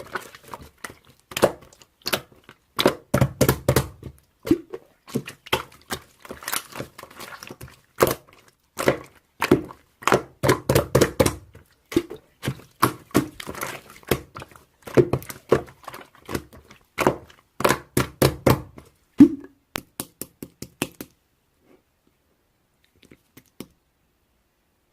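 Slime being squeezed, pressed and stretched by hand, giving a dense run of sticky pops, clicks and crackles with some duller squelching thumps; it stops about 21 seconds in.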